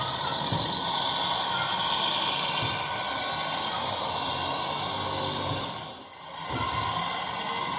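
Truck engine sound from the RC tipper's electronic sound module, running steadily, falling away briefly about six seconds in and then picking up again.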